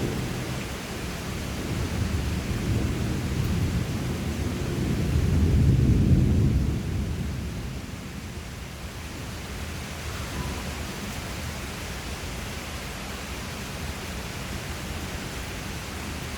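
A long, low rumble of thunder over steady rain. It builds to its loudest about six seconds in, then dies away, leaving the rain.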